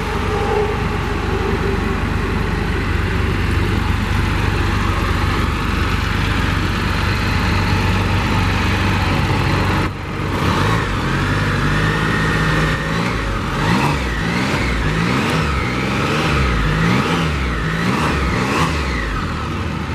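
2021 Can-Am Spyder RT Limited on its stock exhaust: the Rotax 1330 inline three-cylinder engine runs steadily for about ten seconds. After a short dip it is revved up and down repeatedly, about six blips.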